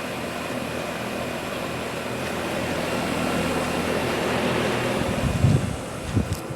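2007 Trane XR14 2-ton air conditioner's outdoor unit running: a steady hum from its Climatuff reciprocating compressor under the whoosh of the condenser fan. Near the end a few low thumps break in.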